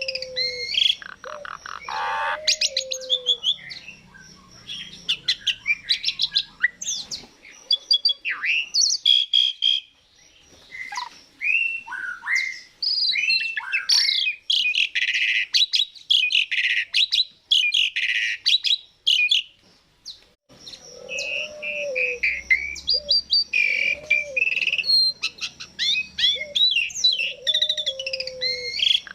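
Asian pied starling singing in full song: a varied run of whistles, chattering and fast rattling clicks, with a low, falling whistled phrase repeated at the start and again in the last third, and two short breaks near the middle.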